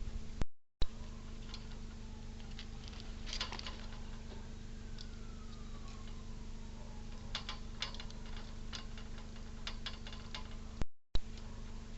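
Scattered light clicks and taps over a steady electrical hum, as picked up by a bird-feeder camera's microphone. A faint falling whistle comes midway. The sound cuts out briefly twice, about half a second in and near the end.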